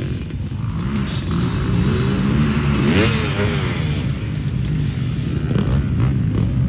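Dirt bike engine running, revving up and back down once about three seconds in.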